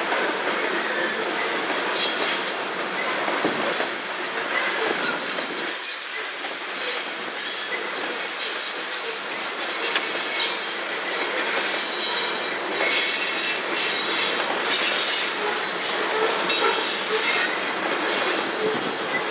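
CSX freight train of covered hopper cars rolling past, its steel wheels squealing in thin high tones over a steady rumble of cars, with repeated clicks as wheels cross rail joints.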